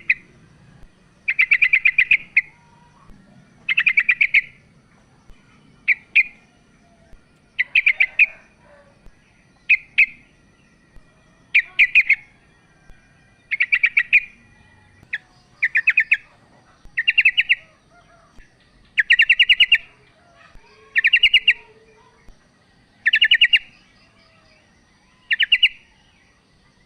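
Female yellow-vented bulbul (trucukan) calling: short bursts of rapid chattering notes, one roughly every one to two seconds.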